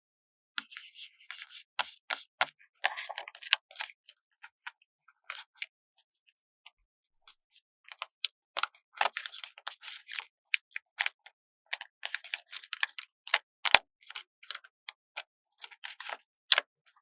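Paper stickers being peeled off their backing sheet and pressed down: irregular crisp crackles and sharp taps, with short pauses between them.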